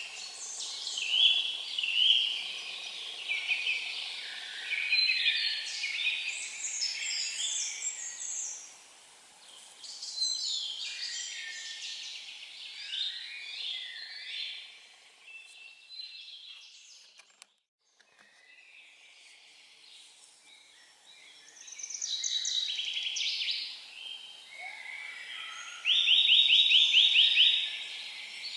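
Several songbirds singing in overlapping phrases of varied high notes, with a brief break about two-thirds through. Near the end one bird gives a loud, rapid trill.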